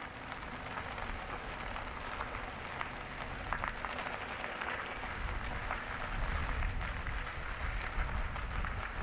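Steady riding noise from a moving e-bike: a rushing hiss of wind and tyres on the trail, with low wind buffeting on the microphone growing heavier about five seconds in.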